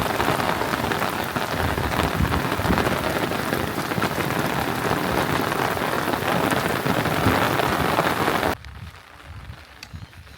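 Loud, steady rain falling, which cuts off suddenly about eight and a half seconds in, leaving a much quieter background.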